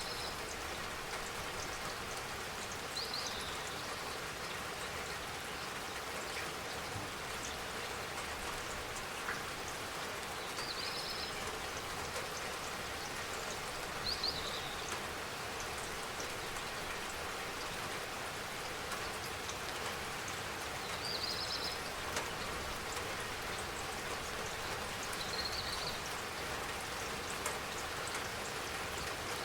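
Steady spring rain falling and pattering on surfaces. A short high chirp, likely from a bird, sounds about six times, a few seconds apart.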